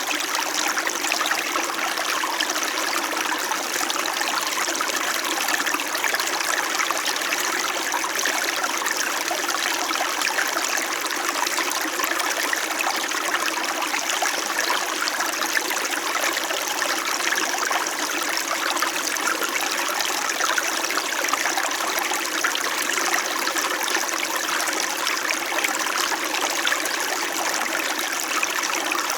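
Small mountain stream flowing steadily, an even babble and trickle of water over stones.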